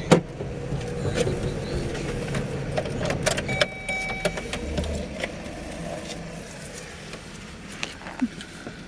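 A vehicle's steady low rumble with scattered clicks and rattles, and a brief high tone about three and a half seconds in.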